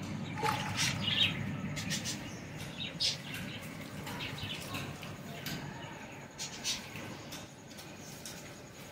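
Small birds chirping in short, scattered calls over a steady low background noise.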